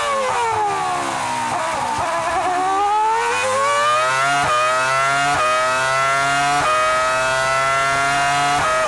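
Formula 1 V10 engine heard onboard: the revs fall off for about two seconds as the car slows for a corner, then it accelerates hard with quick upshifts about four and a half, five and a half and six and a half seconds in. After that the pitch rises slowly on a long pull, and a downshift comes near the end.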